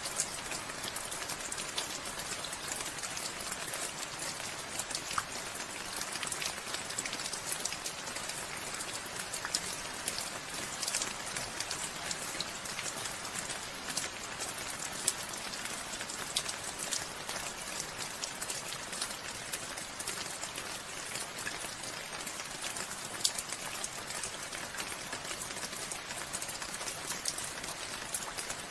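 Steady rainfall, with many individual drops pattering on a surface and an even hiss of rain behind them.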